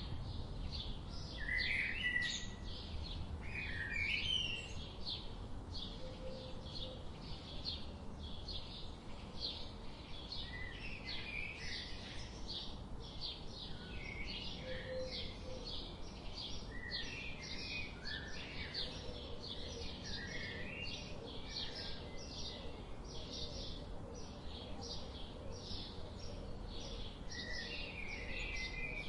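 Tropical forest birds calling: short chirping phrases over a steady series of high, evenly spaced notes, about two a second, with a low background rumble.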